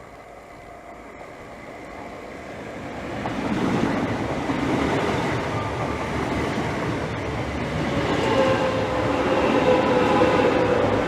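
Class 365 electric multiple unit pulling into the platform. The rumble of the train builds over the first few seconds, and about two-thirds of the way in a whine appears that slowly falls in pitch as the train slows.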